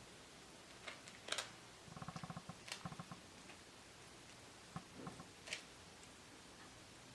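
Light clicks and taps of kitchen utensils and dishes being handled, with a quick run of light taps about two seconds in and scattered single taps after it.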